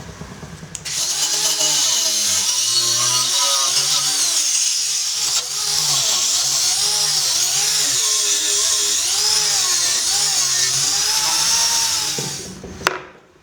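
A handheld power tool runs for about eleven seconds, its motor pitch wavering up and down as it is worked under varying load, with a loud hiss on top. It stops about a second before the end, followed by a sharp click.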